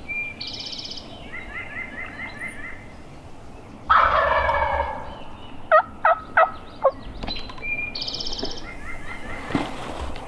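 A wild turkey gobbler gobbles loudly and close once, about four seconds in, followed by four short, sharp calls. A small songbird sings a high trilled phrase near the start and again near the end.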